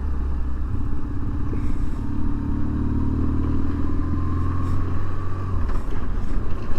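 BMW R1150 GSA's boxer twin engine running at a steady road speed. Its note eases off near the end as the throttle is rolled back.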